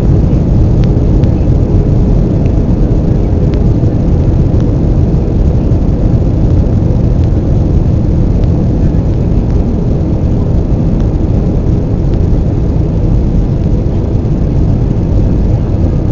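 Steady, loud low rumble of jet engines and rushing air heard inside the cabin of an Airbus A320 in flight, with a faint steady hum and a few light ticks.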